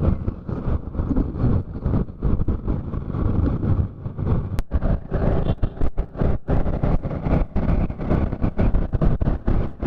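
Wind buffeting the microphone of a riding motorcycle, a rough fluttering rush over the bike's road and engine noise.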